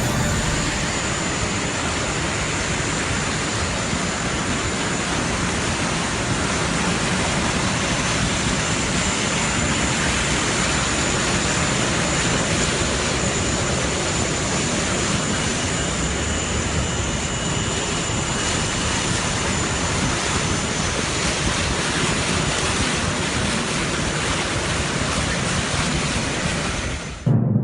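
Steady rushing noise with a faint high whistle running through it.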